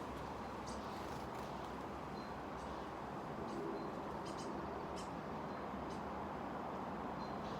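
Steady wind noise with a low background rumble, and small birds giving brief high chirps and short thin calls scattered through.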